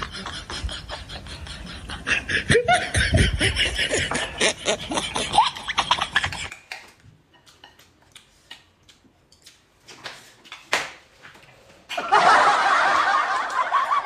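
A man snickering and laughing through closed lips, mixed with sharp clicks of chopsticks on stainless steel bowls. This drops to a few scattered clicks, then about two seconds before the end a loud, even rushing noise starts suddenly.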